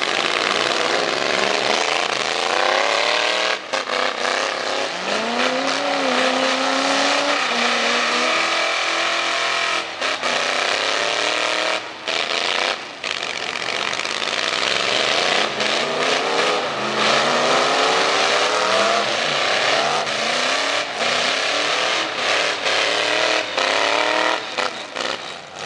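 Racing pickup truck engine with loud exhaust under hard throttle, its pitch rising and falling several times as it revs and shifts.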